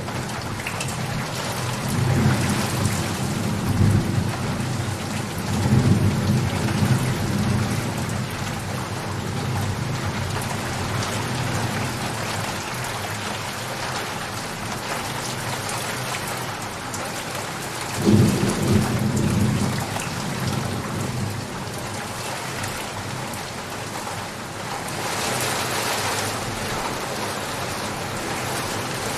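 Steady heavy rain, with thunder rumbling a few seconds in and a sharper thunderclap about eighteen seconds in. Near the end the rain swells louder for a couple of seconds.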